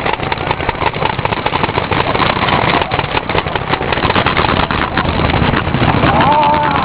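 Many paintball markers firing at once in a dense, rapid, irregular popping of shots. A voice shouts briefly near the end.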